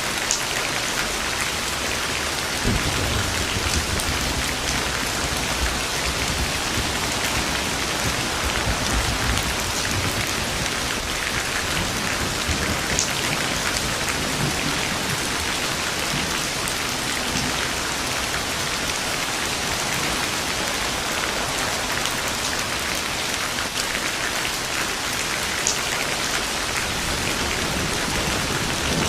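Steady, heavy rain falling on a surface, with a low rumble of distant thunder rolling through the first third and again briefly around the middle.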